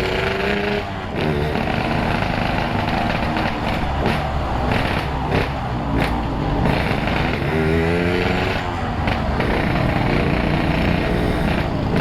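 Yamaha RX-King's two-stroke single-cylinder engine, fitted with a Boban C33 exhaust, running loud and revving up in rising sweeps, once at the start and again about eight seconds in.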